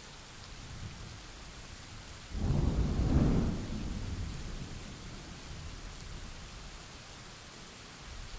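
Steady rain with a thunderclap: a sudden loud crack about two seconds in, rolling on as a low rumble that fades over the next few seconds.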